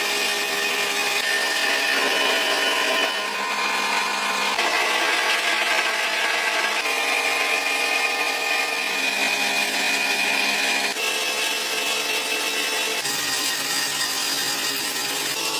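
Factory machine noise: steady whining of power tools or machining, its pitch jumping to a new level every few seconds.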